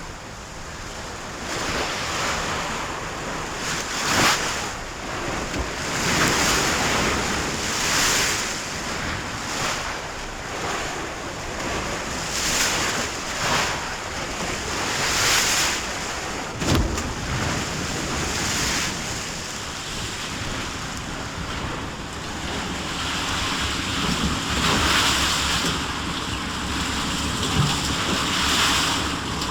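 Sea waves surging and washing in repeated swells every couple of seconds, with wind, and a sharp knock about four seconds in and again near the middle.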